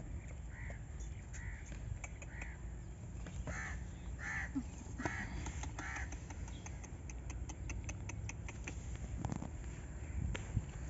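A bird calling outdoors, a series of about seven short, harsh calls in quick succession, one roughly every three-quarters of a second. Later comes a run of quick, faint clicks.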